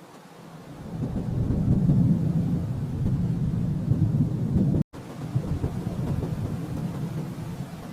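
Rolling thunder: a deep rumble swells over the first two seconds. It cuts out for an instant about five seconds in, then rumbles on more quietly.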